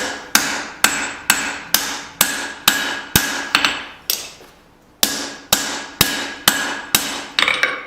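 Hand hammer striking hot steel over the horn of an anvil, drawing down the thickness of a small hatchet blade. The blows come about two a second, each one ringing. There is a short pause about four seconds in, then the blows resume, and a few quick lighter taps come near the end.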